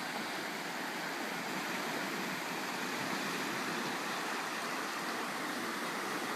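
Floodwater of a swollen mountain creek, out of its banks, rushing past in a steady, unbroken roar of water noise.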